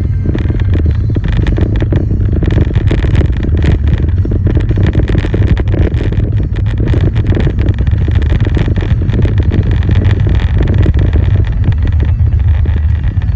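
Car driving along with a steady, loud low rumble of road and engine noise.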